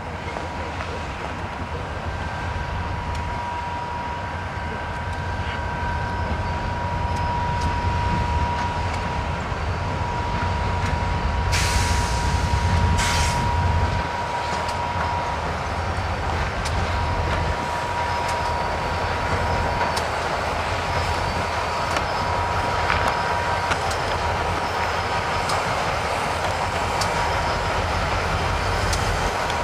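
Freight train cars rolling past, with a low rumble and a steady, high wheel squeal. There are two short hissing bursts about twelve and thirteen seconds in.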